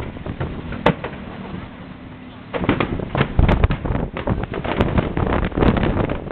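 Fireworks going off: a single bang about a second in, then from about two and a half seconds a dense run of bangs and crackles.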